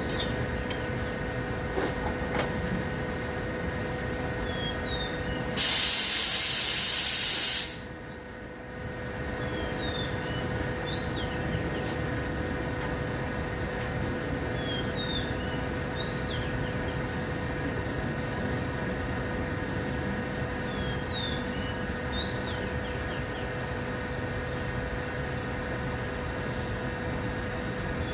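A loud blast of compressed air hissing for about two seconds, some six seconds in, over a steady mechanical hum.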